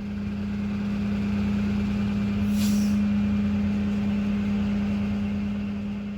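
A motor vehicle's engine running at a steady pitch, swelling louder and easing off again, with a brief hiss about two and a half seconds in.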